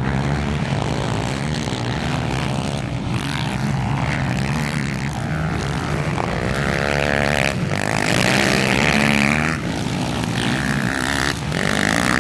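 Racing quad ATV engines on a motocross track, several at once, revving up and down through gear changes and corners. They grow loudest about eight seconds in, as machines pass close, then ease off.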